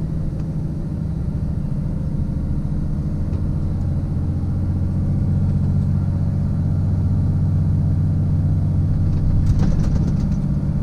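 Scania Super truck's 13-litre inline-six engine droning steadily, heard inside the cab while the truck descends a long hill held back by its retarder, with the foot brake untouched. A short burst of clicks sounds near the end.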